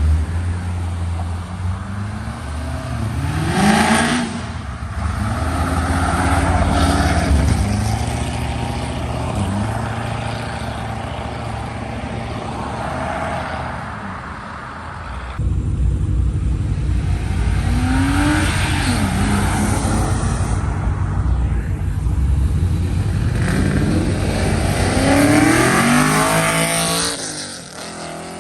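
Modified muscle-car engines revving and accelerating hard, engine pitch climbing in sharp runs a few seconds in, about two-thirds through and again near the end, where the car pulls away and the sound drops off. An abrupt jump in loudness about halfway through.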